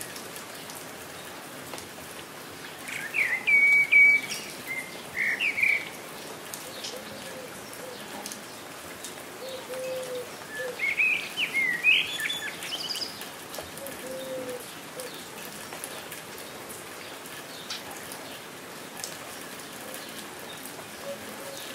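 Steady rain falling, with a songbird singing two short bursts of rapid chirps, about three seconds in and again about eleven seconds in. A few soft low calls sound in between.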